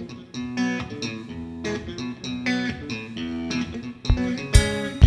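Live band playing the intro to a song: a guitar picks a melodic line of single notes over bass, and near the end a few drum hits lead into the full band.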